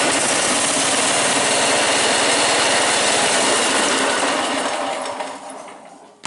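Suburban 10 garden tractor's engine spinning with a steady, rapid pulse, then winding down and dying out near the end. It is starved of fuel because the gas shutoff was left closed.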